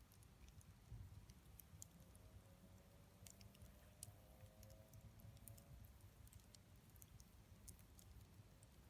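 Wood campfire crackling faintly, with scattered small pops and clicks over a low rumble.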